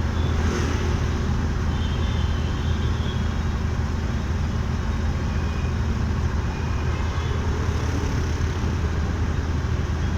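Motorcycle engine running steadily at cruising speed in city traffic, a constant low hum under a steady wash of road and wind noise.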